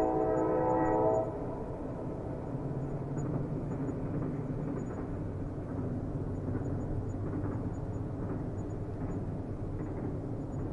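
Train horn sounding a chord of several tones that cuts off about a second in, followed by the steady low rumble of a train rolling on the rails.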